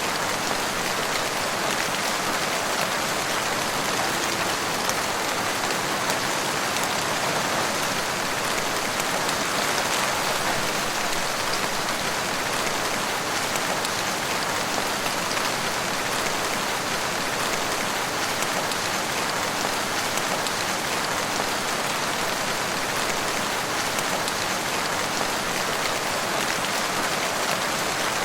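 Steady rain falling in woodland, an even hiss of drops with faint scattered patters.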